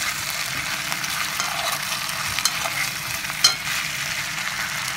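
Sliced potatoes and onion sizzling steadily as they fry in a kazan pot, stirred with a metal spoon that scrapes and clicks against the pot. One sharper knock comes about three and a half seconds in.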